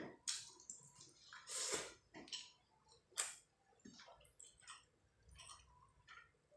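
Close-miked wet mouth sounds of someone eating rice and fish curry: irregular clicks and smacks of chewing, a few a second, some louder, with one longer wet smack or slurp about two seconds in.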